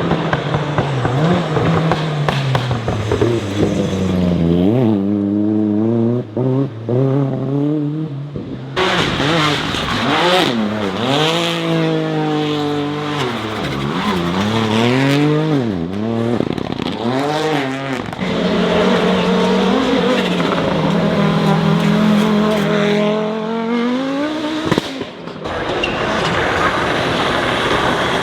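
Rally car engines run hard, the engine note climbing through the revs, then dropping sharply on gear changes and lifts, again and again.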